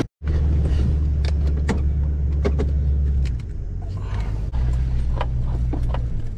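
Motor vehicle running: a steady low engine hum with scattered clicks and rattles. The hum eases about three seconds in and picks up again a second or so later.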